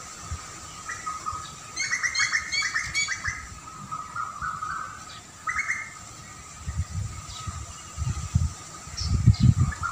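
Songbirds chirping: a quick run of high chirps about two seconds in, then scattered single calls. In the last few seconds, low gusts of wind buffet the microphone.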